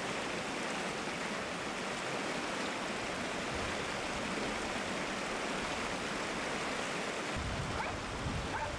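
A river flowing with a steady rush of water; a deeper rumble comes in near the end.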